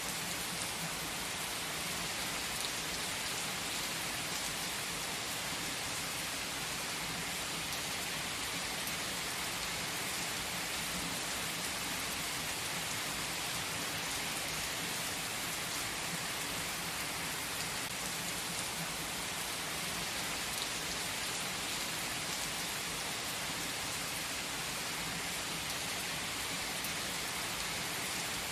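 A steady, even hiss of rain, with no music or voice.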